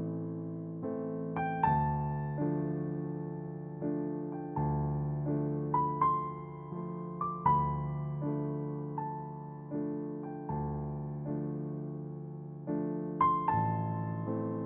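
Soft background piano music: gentle chords and a slow melody, each note struck and fading.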